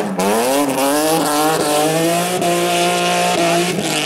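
Rally car engine at high revs under hard acceleration, its pitch climbing, then dropping and climbing again at quick upshifts.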